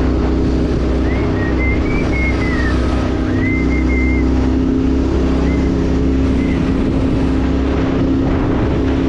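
Vehicle engine running at a steady speed while on the move, with wind buffeting the microphone.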